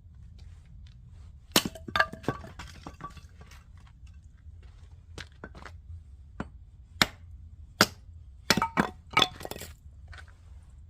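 Dry oak firewood being broken up: sharp cracks and hard wooden clacks in quick bunches, loudest around two seconds in and again from about seven to nine and a half seconds, with small crackles between, over a steady low rumble.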